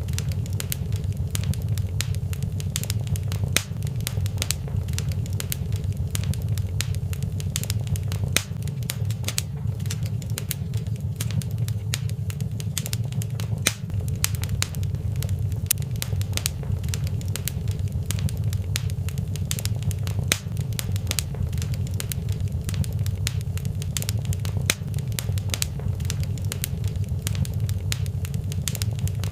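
Fireplace fire crackling steadily, with irregular sharp pops and snaps over a constant low rumble.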